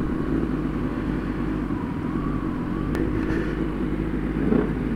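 Sport motorcycle engines idling with a steady low rumble. A single sharp click about three seconds in.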